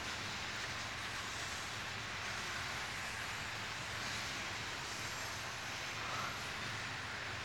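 Steady rumble of a loaded freight train of coal hopper cars rolling past, wheels running on the rails.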